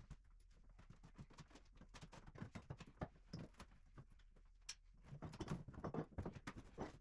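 Faint, irregular knocks, taps and clatter in a small room, as hardboard sheets are pried up and handled off an old wooden floor, with a busier run of knocks about five seconds in.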